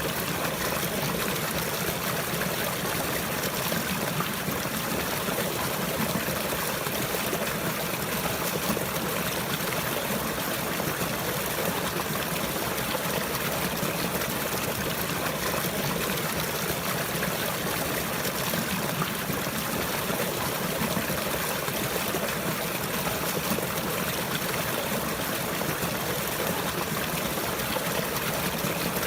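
Running water, a stream trickling and flowing in an even, unbroken rush.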